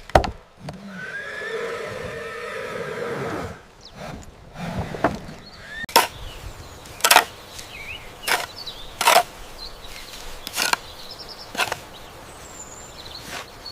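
An animal call lasting a few seconds near the start, followed by a series of sharp knocks at irregular intervals of about a second.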